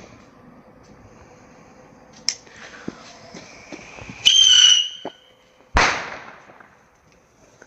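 A small whistling firework: a fuse hisses briefly, a loud shrill whistle sounds for about half a second, then a single sharp bang that dies away.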